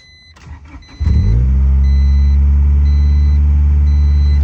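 Honda Integra engine starting about a second in, flaring briefly and settling into a steady idle, with a small exhaust leak still hissing a little where the header meets the rest of the exhaust. An electronic chime beeps on and off about every half second.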